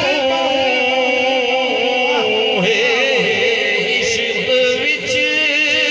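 A singer holds a long, wavering, ornamented note over music in a Punjabi devotional song.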